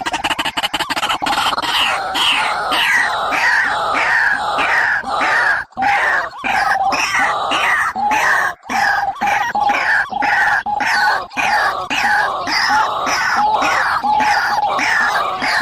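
Loud bird calls of the kind played to lure birds into traps: a fast, continuous run of short harsh notes, each falling in pitch, starting about a second in.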